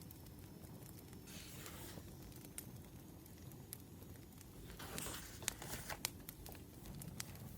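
Two brief rustles of paper, about a second in and again near five seconds, over scattered sharp pops and crackles of a wood fire.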